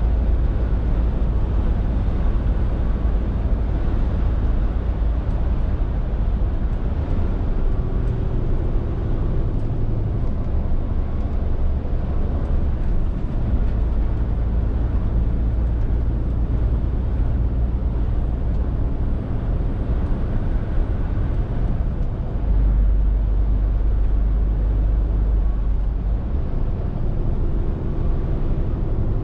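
Scania R450 lorry's 13-litre straight-six diesel running under way, with tyre and road noise: a steady low drone whose pitch shifts a few times as the engine speed changes.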